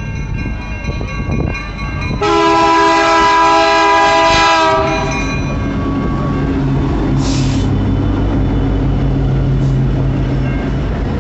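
CN diesel freight locomotives passing close by: the horn sounds one long blast about two seconds in, then the locomotives' engines drone steadily over the rumble of the train rolling past.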